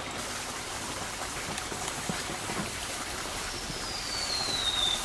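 Firework hissing and crackling steadily, with a thin whistle falling in pitch near the end.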